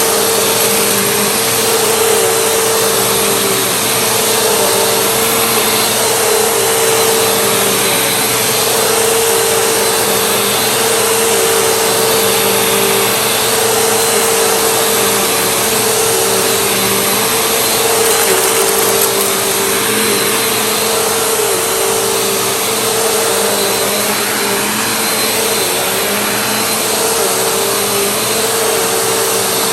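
Vacuum cleaner running steadily, a loud motor whine over a rush of airflow, with a slight dip in one note every few seconds.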